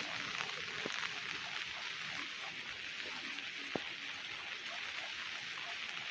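Steady rain falling, an even hiss, with two light taps, about one second and about four seconds in.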